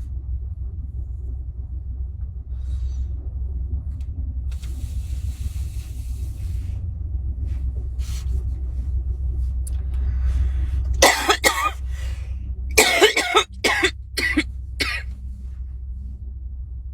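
A person coughing: one burst about eleven seconds in, then a run of four or five short coughs, over a steady low rumble.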